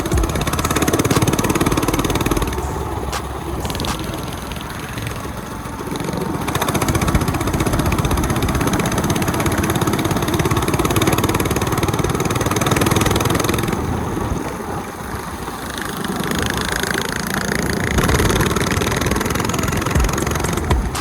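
Mini bike's 212 cc Predator single-cylinder engine running while being ridden. Its sound rises and falls with the throttle and dips about five seconds in and again around fifteen seconds.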